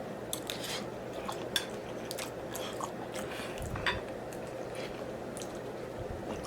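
Close-up chewing and biting with wet smacking mouth clicks scattered throughout, a couple of louder ones about one and a half and four seconds in.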